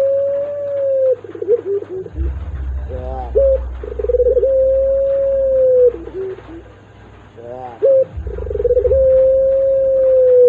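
Ringneck dove cooing over and over. Each call opens with a short rising note, holds a long, steady, drawn-out coo for about two seconds, and ends in a few short lower notes, about every four to five seconds. A low rumble runs under two of the calls.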